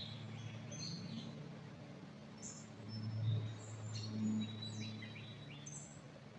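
Wild birds calling in the forest: scattered short, high chirps and whistles, one of them a quick falling note about five seconds in, over a low steady hum.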